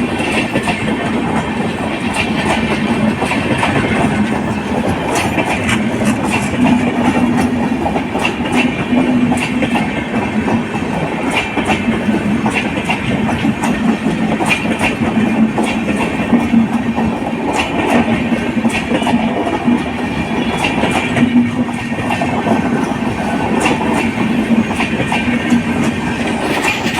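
Passenger coaches of an Indian Railways express train rolling past, wheels clicking over rail joints amid a steady rumble.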